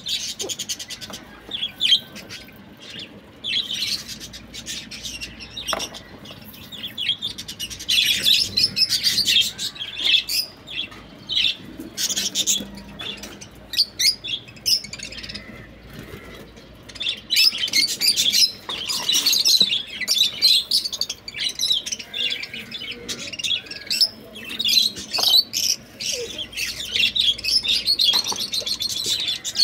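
Several budgerigars chattering and chirping in rapid, high-pitched trills. The chatter comes in dense bursts with short lulls between them.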